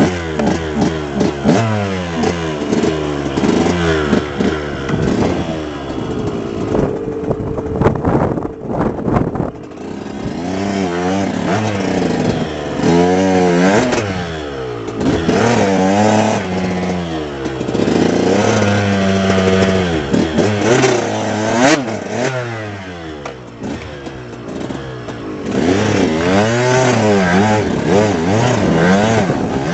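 Off-road motorcycle engines revving hard, the pitch climbing and dropping over and over as the bikes accelerate and shift gears.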